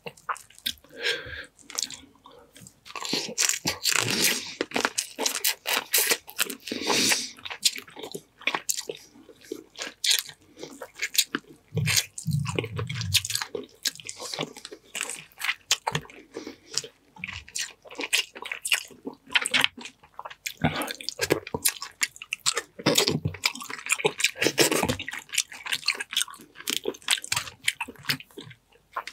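Close-miked wet chewing and smacking of boiled seafood, with crunching and crackling as blue crab shell is broken and picked apart by hand.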